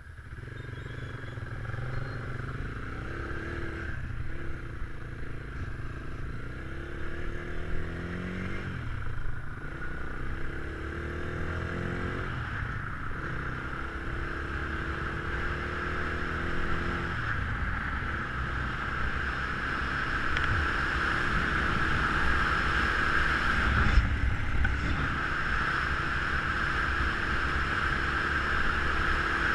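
Geon Scrambler 250 motorcycle engine accelerating through the gears, its pitch climbing and dropping at each shift, with wind noise on the microphone growing as speed builds.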